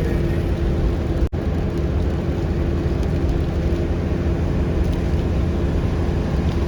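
Steady engine and road noise inside a moving car: a low rumble with a faint constant hum. It cuts out for an instant about a second in.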